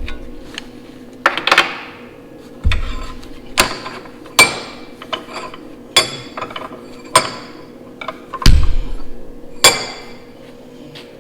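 A series of about nine sharp metal-on-metal strikes, irregularly spaced, several with a brief ring, over a steady shop hum.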